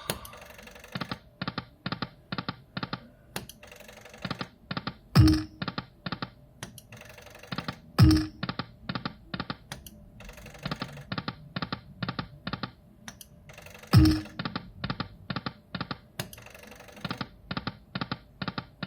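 Aristocrat Lightning Cash video slot machine sound effects as the reels spin and stop: runs of quick, evenly spaced clicks, about four or five a second. A louder, deeper thud that drops in pitch comes three times, about five, eight and fourteen seconds in.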